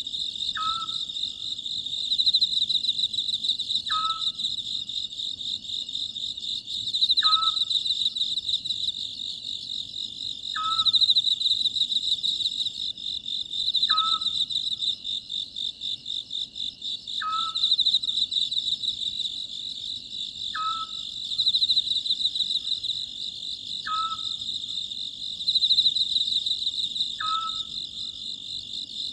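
Oriental scops owl giving a short single call about every three seconds, over a loud, steady chorus of chirping crickets.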